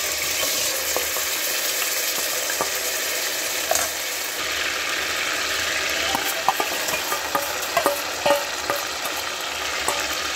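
Hot oil sizzling in a pressure cooker as soaked green mung beans are poured in and stirred. The sizzle grows louder about four seconds in, and a few sharp metal clinks of the spoon or bowl against the pan come in the second half.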